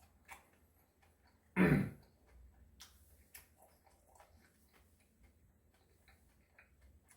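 Close-miked chewing of a mouthful of Spam rice wrap: soft, irregular wet clicks and smacks. About one and a half seconds in there is one much louder, lower sound.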